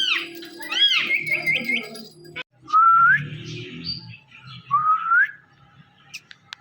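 Indian ringneck parrot whistling: a couple of arched whistled notes and a quick run of short chirps in the first two seconds, then two separate rising whistles, about three and five seconds in.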